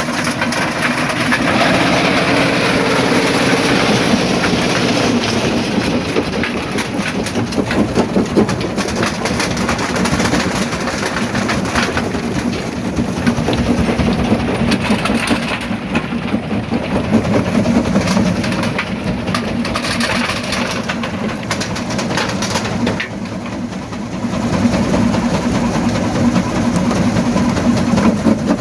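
Primary jaw crusher breaking rock: a steady machine drone under continuous cracking, knocking and clattering of stone.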